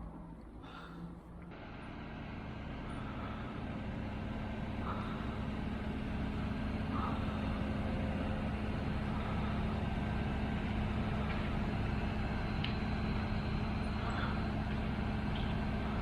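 A heavy vehicle's engine running steadily with a constant hum, growing louder over the first several seconds and then holding level, with a few faint clicks over it.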